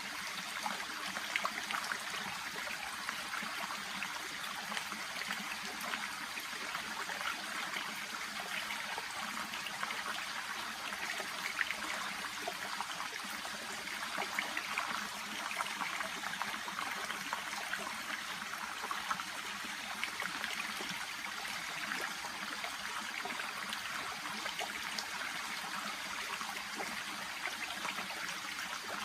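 A shallow brook (せせらぎ) babbling steadily, a continuous trickling rush of water with small irregular splashes and gurgles.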